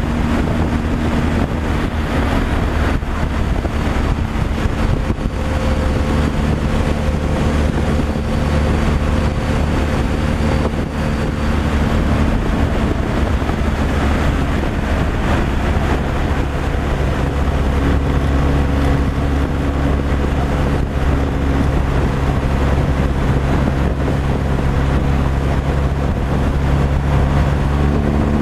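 Truck engine running steadily while driving on the road, with tyre, road and wind noise. The engine note shifts to a different pitch about halfway through.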